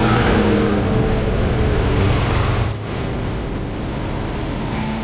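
A motor vehicle engine running loud under throttle, then easing off about three seconds in and carrying on at a lower, steady level.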